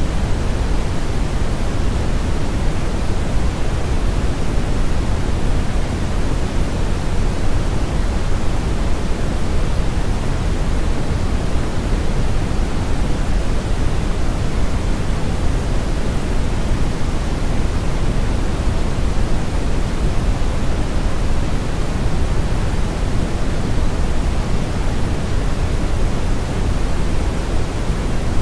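Steady synthetic brown noise: an even, unbroken rumbling hiss, strongest in the bass and falling off toward the treble, with no tones or events.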